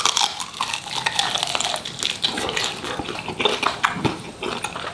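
Close-up biting and chewing of a dry-rubbed lemon pepper chicken wing, with an amazing crunch: a dense run of quick, irregular crisp crackles.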